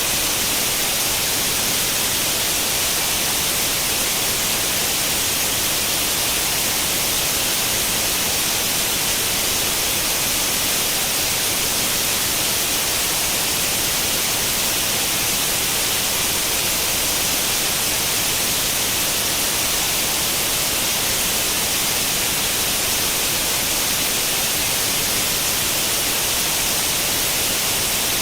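Steady static hiss of an old tube television tuned to no channel, unchanging, with most of its energy in the treble.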